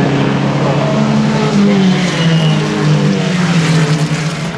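Racing car engine running, its pitch slowly rising and falling.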